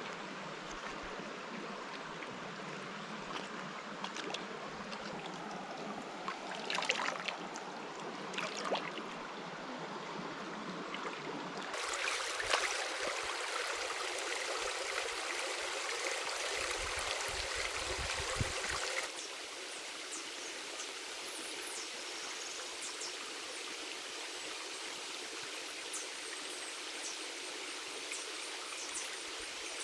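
Running water of a stream, a steady rushing, with a couple of brief knocks about a quarter of the way in. The sound changes abruptly twice, getting louder at about 12 seconds and dropping back at about 19 seconds.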